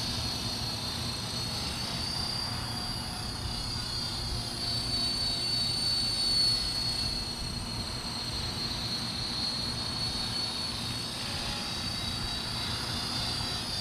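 450-size RC helicopter in flight, its motor and rotors giving a steady high-pitched whine that wavers slightly in pitch.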